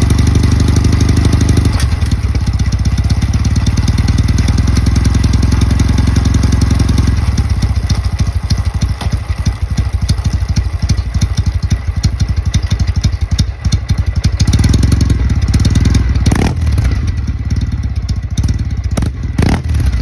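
Kawasaki W650 parallel-twin engine idling through a POSH aftermarket muffler, settling to a lower, more uneven idle after about seven seconds and picking up slightly later on. A few sharp knocks come near the end.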